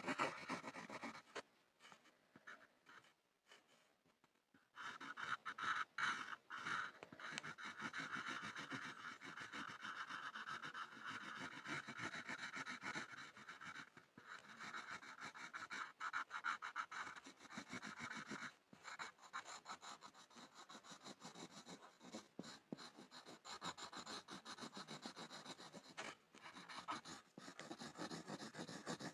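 Pencil scribbling on a board: continuous rapid scratching strokes of graphite, with a pause of about three seconds near the start.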